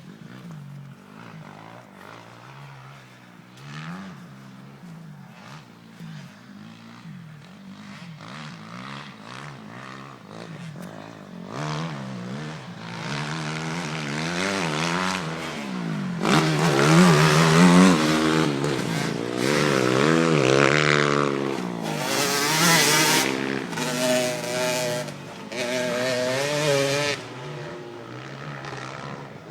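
Motocross bike engines revving up and down as they ride. The sound is fainter at first, grows louder until it is loudest through the second half with repeated rises and falls in pitch, then fades near the end.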